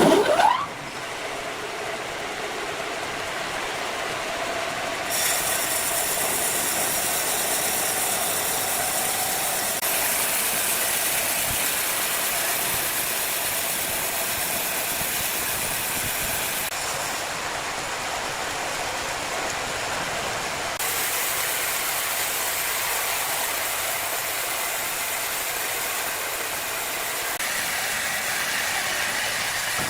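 Power saw running and cutting wood: a steady, loud mechanical whine over a hissing cutting noise, with a rising whine right at the start and the sound changing abruptly several times.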